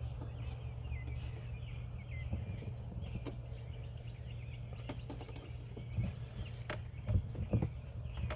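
Steady low hum of the surroundings, with faint high chirps and a few light clicks and knocks in the second half.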